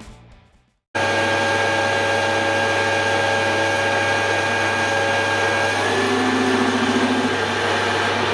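Background music fading out in the first second. Then a Hare and Forbes AL335 metal lathe starts up suddenly and runs steadily, motor hum and gear whine, while its tool cuts the metal stock. About six seconds in the whine shifts in pitch and a wavering tone joins it as the cut goes on.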